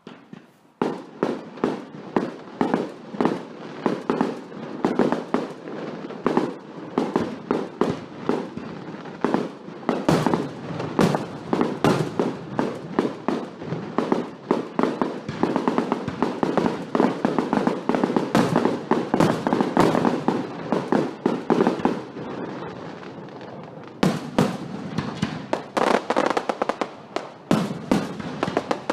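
A large fireworks display: a dense, near-continuous run of bangs and crackling bursts, which eases for a moment after about twenty seconds and then picks up again.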